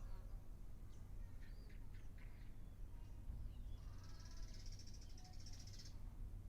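Wild birds calling: scattered short high chirps, then a high, buzzy trill lasting about two seconds starting about four seconds in, over a steady low rumble.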